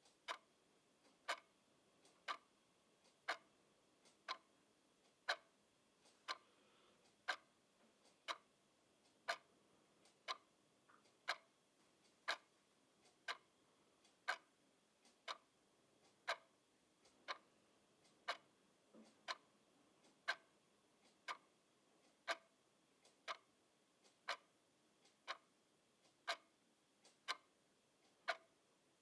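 Clock ticking steadily at about one tick a second.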